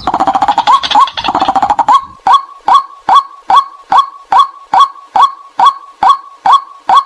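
White-breasted waterhen calls: a loud, evenly repeated 'kwak' note, about two a second, each dropping slightly in pitch. The first two seconds hold a faster, harsher chattering run. This is a looped lure call used to bring the birds in.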